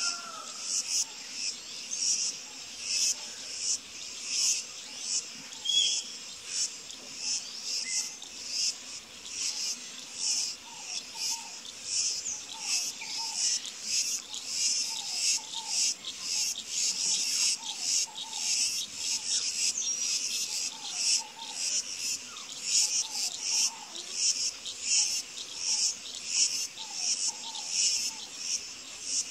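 Insects chirping in a loud, high-pitched pulsing chorus, about two pulses a second, steady throughout.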